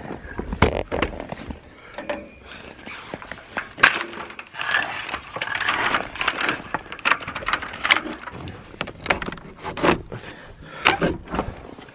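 Footsteps crunching through snow, then a string of knocks, clicks and scrapes as a weathered wooden gate and barn door are handled.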